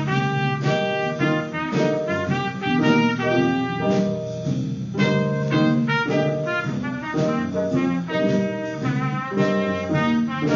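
Band music in a jazz style, led by brass and saxophones, playing short rhythmic chords.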